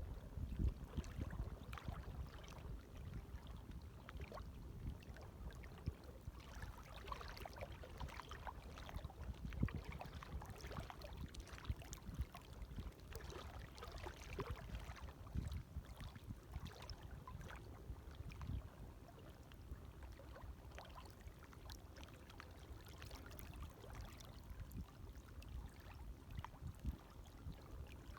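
Gentle small waves lapping at the water's edge, heard faintly as a low rumble with irregular small splashes and gurgles.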